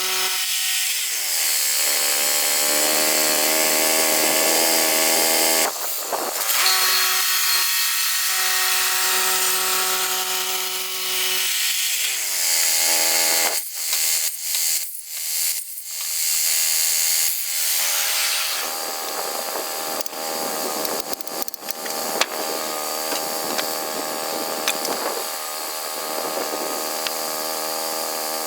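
Engine-driven saw cutting through a log, its engine note dropping under load about a second in, holding steady, then dropping again after about 12 seconds, with a few choppy breaks in the middle before a noisier cutting stretch.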